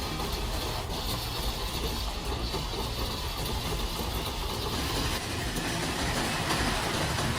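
Train running, a steady engine and rail rumble with no clear pitch.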